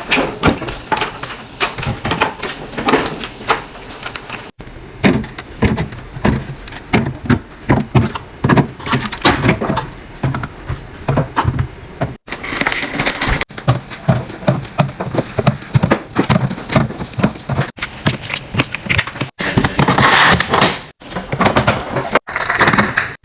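Plastic containers, bottles and packaging clicking and clattering as a fridge is restocked, with fridge drawer and door sounds, in a run of short clips.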